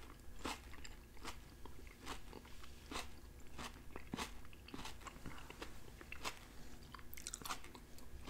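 Close-miked chewing of soft roasted red potatoes and onions: faint, wet mouth clicks, about one or two a second.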